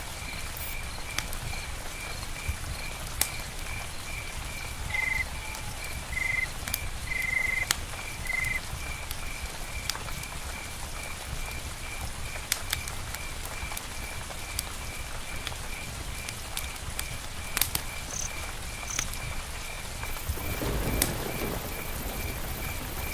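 Steady rain with scattered drops ticking, while an insect chirps in an even pulse about three times a second. A few short calls come between about five and eight seconds in, two brief high notes near the end, and a louder low rustling swell just before the end.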